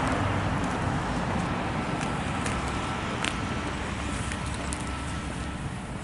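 Steady outdoor background noise with a low rumble, like road traffic, slowly fading, with a few faint clicks.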